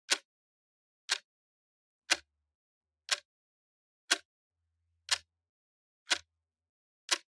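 Clock ticking steadily, one sharp tick every second with silence between the ticks.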